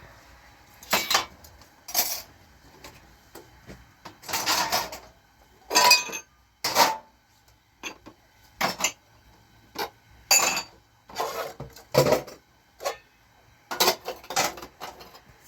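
Pots, dishes and utensils clinking and knocking against each other in a run of separate, irregular strikes, some with a short ring.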